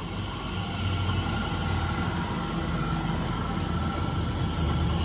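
Elizabeth line Class 345 electric multiple unit drawing into the platform: a steady low hum with a whine from its traction equipment, growing louder about a second in.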